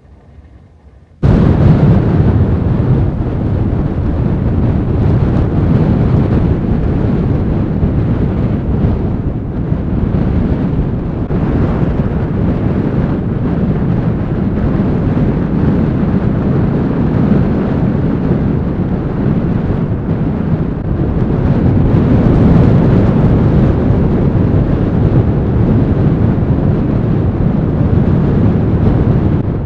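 Strong blizzard wind buffeting the microphone: a loud, low, rumbling noise that cuts in suddenly about a second in and keeps on with small swells.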